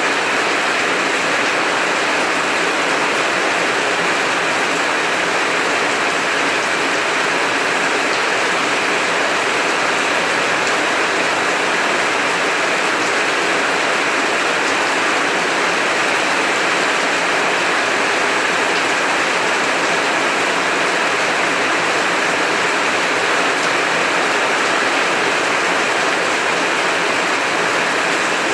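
Heavy rain falling steadily, an even hiss without breaks or thunder.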